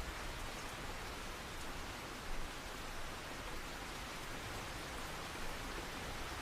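Steady rain falling, an even continuous hiss with a few faint drop ticks and a slight swell about two and a half seconds in.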